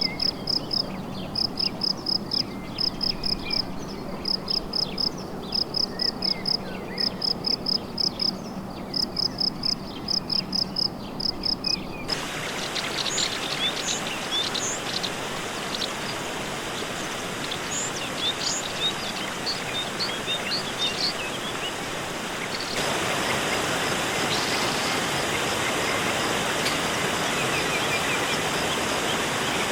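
Rainforest ambience in three cut sections. First come rapid, high chirps repeated in short runs over a steady hiss. About 12 seconds in, the sound changes to a steady hiss with scattered bird chirps, and about 23 seconds in, to a louder even hiss.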